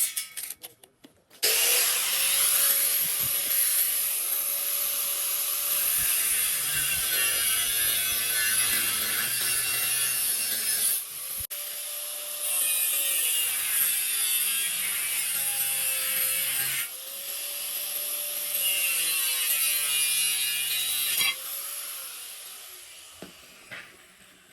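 A handheld power tool grinding or sanding in long continuous passes. It starts about a second and a half in, pauses briefly twice, and stops about three-quarters of the way through, then fades away.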